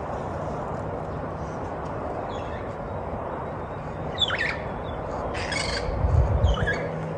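Birds calling outdoors: a few short, harsh squawking calls from about four seconds in, over a steady low background rumble that swells briefly about six seconds in.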